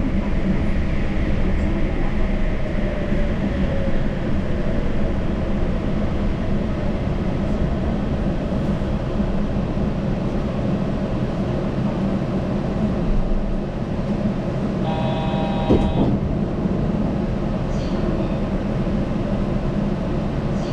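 Yurikamome rubber-tyred automated guideway train running steadily, heard from inside the front of the car. About fifteen seconds in, a short electronic tone sounds for about a second.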